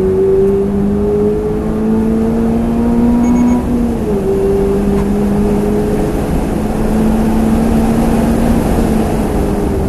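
Toyota GR86 brake noise: a loud, steady low moan with an overtone an octave up, wavering slightly in pitch and dipping twice, over the car's road rumble. This is the big noise the car makes when braking.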